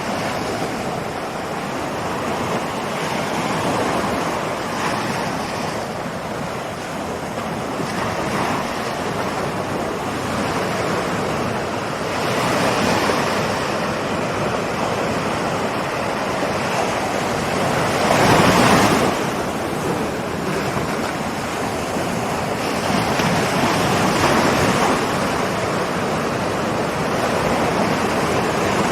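Ocean surf: waves rolling in and washing on the shore in a continuous rushing hiss that swells and ebbs, with one louder wave breaking about two-thirds of the way through.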